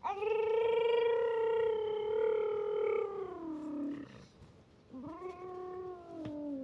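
A young child imitating a car engine with his voice: a long held note that sinks in pitch after about three seconds. A second held note starts about five seconds in and also steps down.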